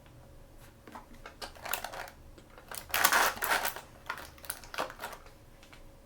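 Blind-bag toy packaging handled and opened by hand: crinkling and rustling with quick clicks and snaps, building to a loud burst of crackling about three seconds in, then fading out after about five seconds.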